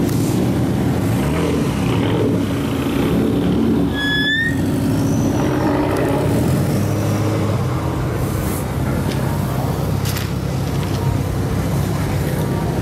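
Car engines running, with a short rising high whistle or squeal about four seconds in.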